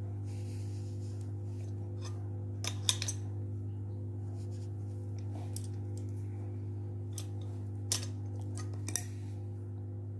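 Sharp metal-on-metal clicks from hand tools and a bearing puller being worked on a ceiling fan motor's ball bearing: a quick cluster of three about three seconds in, then single clicks near the end. A steady low hum runs underneath.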